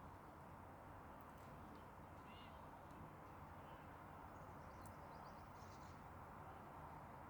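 Faint bird calls over quiet background hiss: a few short chirps about two and a half seconds in, then a quick run of high chirps around five seconds in.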